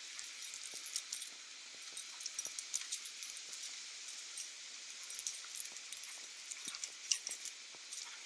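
Dogs romping in play, heard as scuffling with many irregular light clicks and clinks.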